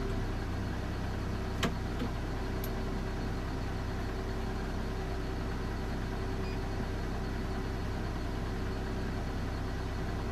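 JCB Fastrac 4220 tractor's diesel engine running steadily at low revs, heard from inside the cab, with a single sharp click about a second and a half in.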